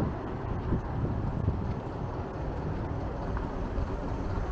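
Strong wind buffeting the microphone, an uneven low rumble, mixed with the steady noise of street traffic.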